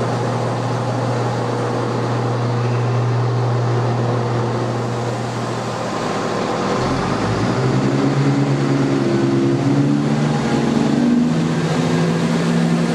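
ScotRail Class 150 diesel multiple unit's engines idling with a steady hum, then about seven seconds in they open up and the engine note climbs in steps as the train pulls away.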